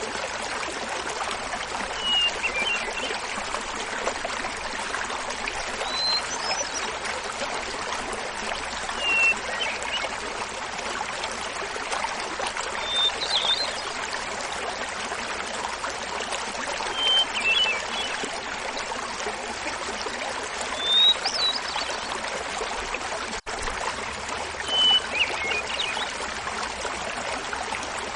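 Small waterfall splashing steadily, with a hermit thrush singing over it: seven flute-like phrases about four seconds apart, each a held opening note followed by quick fluttering higher notes, alternating between a lower and a higher pitch.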